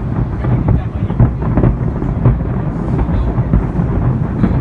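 Fireworks going off in a dense barrage: many bursts and sharp pops run together into a continuous rumble.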